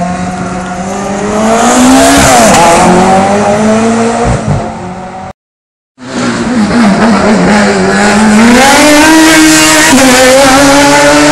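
Hillclimb race car engine at full throttle, its pitch climbing with short dips at gear changes. It cuts off abruptly about five seconds in; after a moment of silence another race car engine comes in, revving up and pulling hard again.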